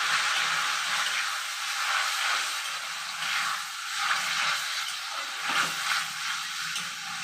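Onion paste frying in hot oil in a kadai: a steady sizzle, with a spatula stirring and scraping it now and then.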